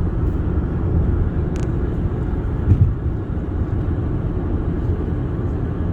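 Steady low rumble of a car moving at highway speed, heard from inside the cabin: tyre and engine noise, with a brief louder knock a little before the middle.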